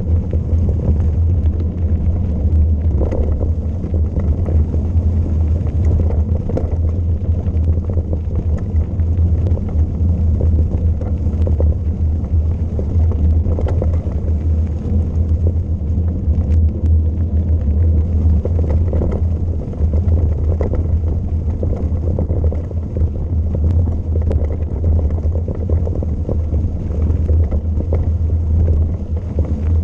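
Steady low rumble of wind buffeting the camera microphone, with scattered faint light ticks.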